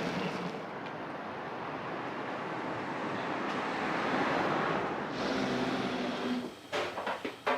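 Food sizzling steadily on a steel teppan griddle. Near the end come several sharp clicks and scrapes of metal spatulas on the griddle.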